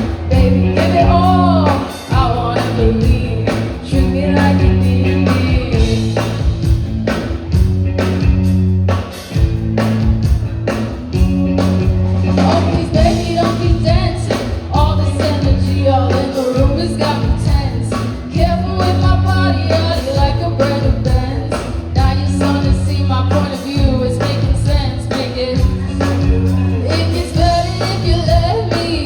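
A rock band playing a song with a singer. Steady bass notes change every second or so under regular drum hits, with a sung melody over the top.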